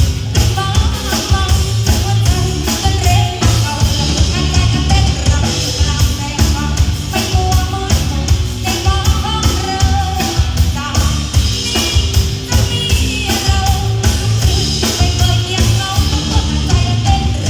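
A live band playing with a steady beat on drum kit, under heavy bass and a stepping melody line.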